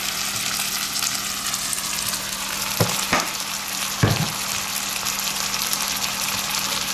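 Noodles and vegetables sizzling steadily in hot oil in a frying pan, with a few brief knocks about three and four seconds in.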